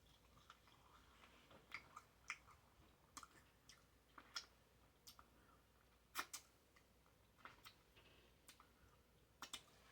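Quiet chewing of a triple bacon cheeseburger: irregular moist clicks and crisp crackles from the mouth, a few of them sharper than the rest.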